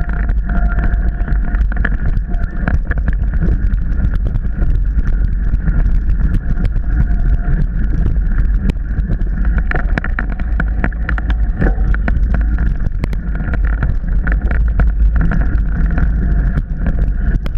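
Mountain bike ridden fast over rough trail: steady wind rumble on the microphone, with frequent sharp clicks and rattles from the bike jolting over the ground.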